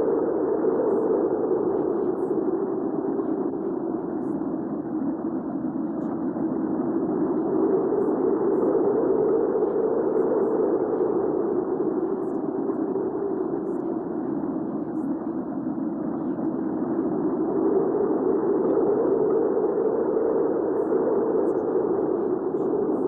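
Hurricane wind ambience: a steady rushing wind with a howling band that slowly sinks in pitch and swells back up, twice.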